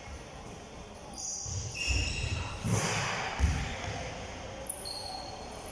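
Basketballs bouncing on a gym floor in irregular dull thuds, mixed with short high squeaks of sneakers on the court, in an echoing hall.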